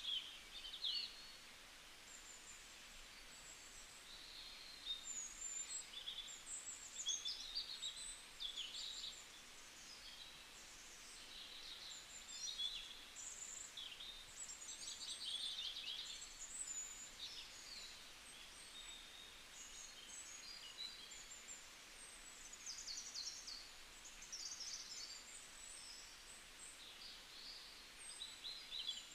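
Birds chirping: many short, high calls and quick trills, overlapping, over a faint background hiss.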